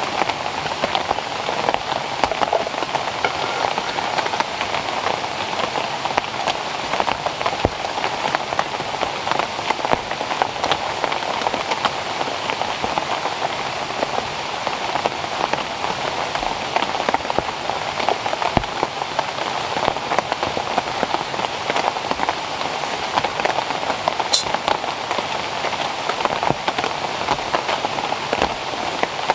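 Steady heavy rain falling on rainforest vegetation, a dense even hiss studded with many separate drop hits.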